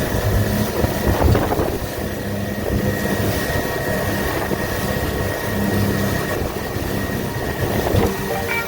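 Motorboat engine running steadily at speed, with wind and water wash and a thump about a second in and another near the end as the hull meets the waves.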